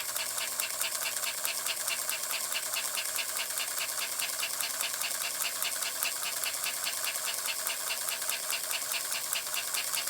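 American Flyer 322 Hudson toy steam locomotive running steadily on its cleaned and relubricated electric motor, with a rapid, even ticking from the mechanism.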